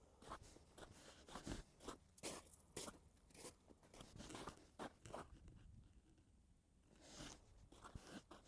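Faint footsteps crunching in snow at a walking pace, easing off briefly past the middle.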